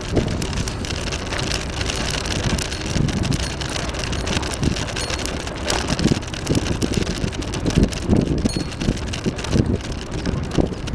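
Wind buffeting the microphone on a moving bicycle: a steady rushing noise with uneven low gusts.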